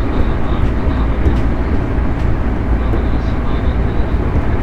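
Running sound of a JR 211 series 5600 subseries electric train heard onboard: a steady, loud rumble of wheels on rail, with light clicks and a faint high tone.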